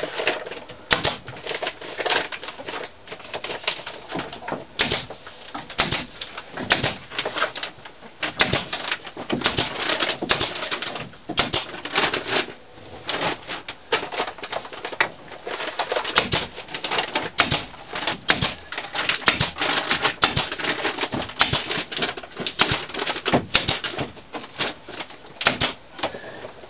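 A staple gun firing again and again, clacking staples through a woven plastic feed bag into the pallet wood, with the bag rustling between shots.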